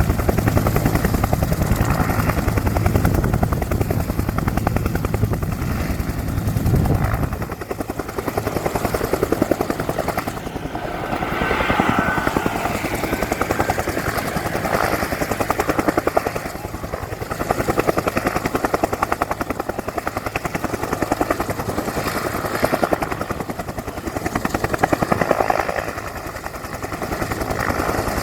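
Two-bladed Bell military helicopter running close by, its rotor beating with a turbine whine. The deep rotor beat is loudest at first and falls away about seven seconds in, leaving a thinner sound that swells and fades.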